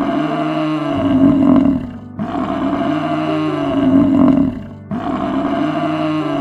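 Water buffalo calling: three long, low bellows in a row, each lasting about two and a half seconds.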